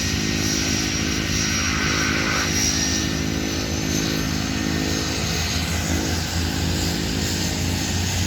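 Propeller airplane engine running steadily at an even pitch.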